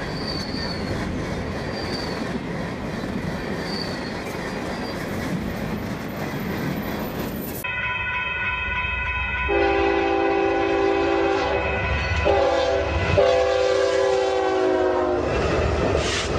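Freight train rolling past with a steady rumble of wagons and faint wheel squeals. About eight seconds in, a locomotive air horn sounds a chord for roughly seven seconds, breaking off briefly twice, louder than the rolling train.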